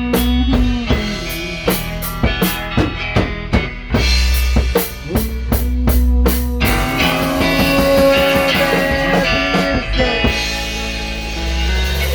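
Instrumental passage of a rock song with no singing: a drum kit plays quick beats with bass, then sustained guitar and bass notes take over from about seven seconds in.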